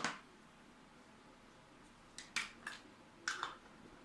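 Sharp clicks and taps of small hard parts being handled while a power supply is put back together: one at the start, then a quick cluster of about five between two and three and a half seconds in.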